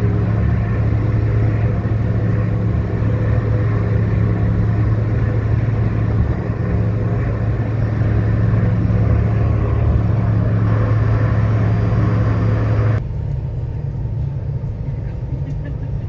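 Ferry's engines droning with a steady low hum, under a broad rushing noise. About thirteen seconds in the rushing noise cuts off suddenly, leaving a quieter hum.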